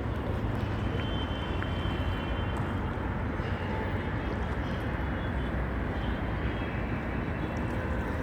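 Steady rushing noise of the sea with a constant low rumble, without breaks or distinct events.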